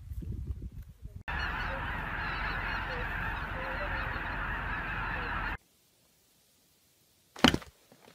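A large flock of geese honking, many calls overlapping in a dense clamour. It starts abruptly about a second in and cuts off about four seconds later. A short loud sound follows near the end.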